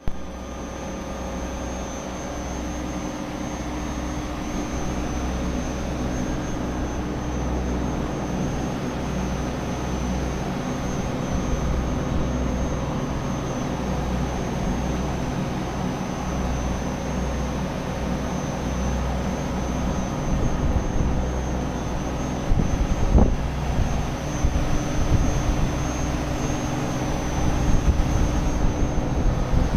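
Chilled water compressor unit running steadily: an even mechanical hum with a thin high whine above it. From about two-thirds of the way in, gusty low rumbling from wind on the microphone joins it.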